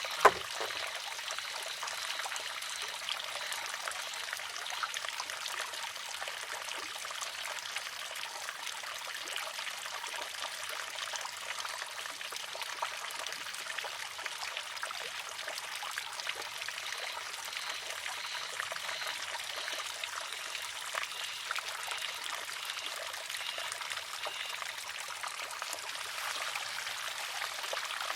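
Wooden shishi-odoshi: its pivoting arm tips over and strikes its stone with one sharp clack just after the start. Then there is a steady trickle of water as the feed pipe slowly refills the arm for the next tip.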